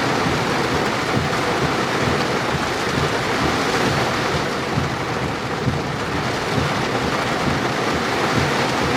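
Heavy rain pouring steadily on a vehicle during a severe thunderstorm, a dense even wash of noise with no pauses.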